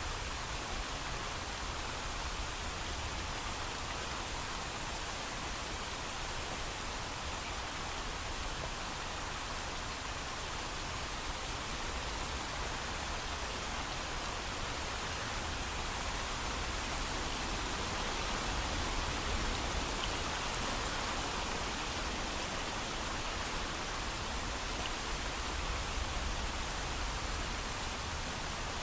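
Steady heavy rain falling, an even hiss with a low rumble beneath and no thunder.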